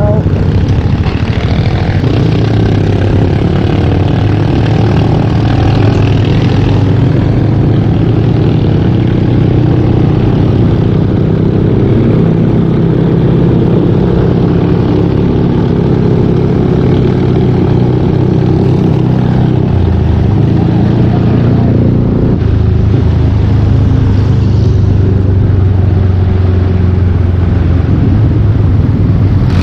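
Yamaha Aerox 155 V2 scooter's single-cylinder engine running under way through a full Yoshimura exhaust, its note rising and falling with the throttle, changing pitch about three-quarters of the way through.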